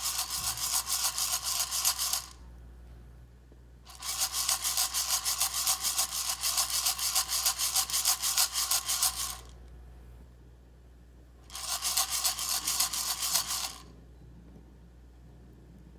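Coffee beans rattling and scraping inside an Irijouzu hand roaster as it is shaken rapidly back and forth, in three bouts with short pauses between them.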